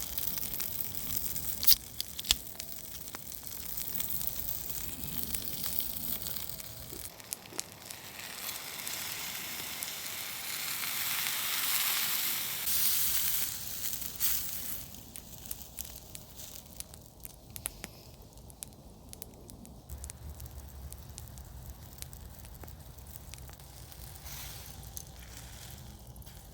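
Campfire crackling and hissing, with two sharp pops about two seconds in. The hiss swells to its loudest about ten to thirteen seconds in, then dies down to a quieter crackle.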